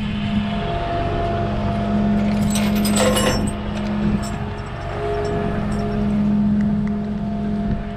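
Vehicle engine idling steadily, with a short rattle of metallic clinks about three seconds in.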